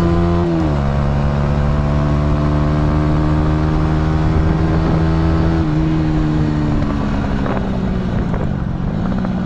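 Honda motorcycle engine under way on throttle. It shifts up about half a second in, holds a steady pitch for several seconds, then falls in pitch near the end as the throttle eases off.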